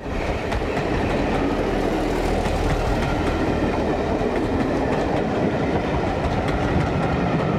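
Train running along the rails: a steady rumble of wheels with faint, repeated clicks over the rail joints.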